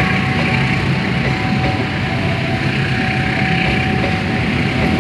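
Passenger train coaches rolling past as the train pulls out of the station: a steady rumble of wheels on the rails, with a thin steady whine above it.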